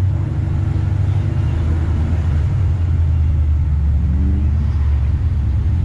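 Chevrolet Nova's engine idling with a steady, deep low rumble, heard close up from the hood.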